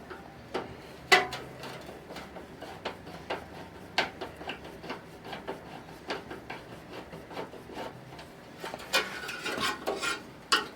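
Irregular small metallic clicks and scraping as screws and sheet-metal panels of a furnace blower housing are worked loose by hand, busier near the end.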